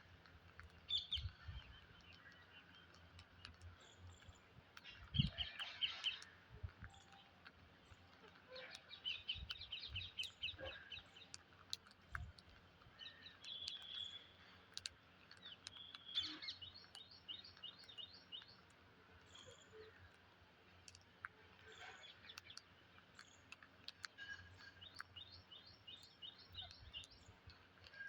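Psittacula parrots calling faintly in quick runs of short, high chirps, several runs of about a second each, with scattered clicks and a few soft thumps between them.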